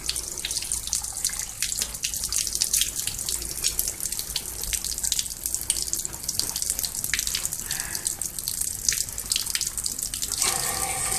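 Water from a hose spraying and splashing inside a steam boiler as it is washed out: a steady hiss with irregular splashes and drips. A steady hum joins near the end.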